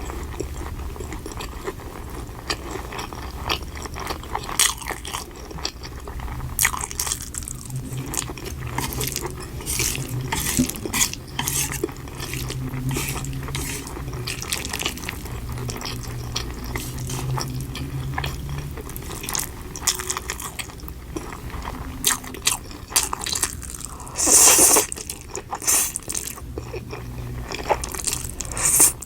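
Close-miked eating: chewing and wet mouth sounds with crunching and clicks of cutlery against a dish. A louder noisy burst of about half a second comes late on.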